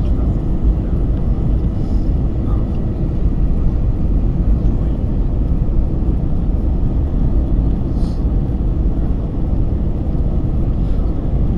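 Steady low rumble of an Airbus A321's engines and airflow heard from inside the passenger cabin.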